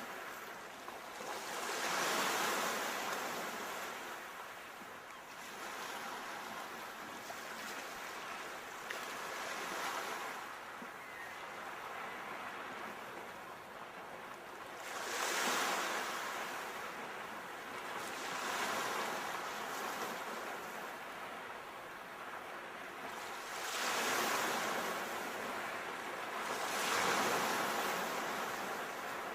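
Ocean waves breaking on the shore, with a steady wash of surf between them; four waves swell up and break more loudly, about two seconds in, around the middle, and twice near the end.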